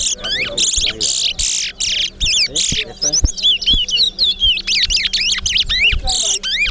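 Caged towa-towa finches singing in a song contest: a rapid, nearly unbroken string of sweeping whistled notes broken up by buzzy, rasping phrases.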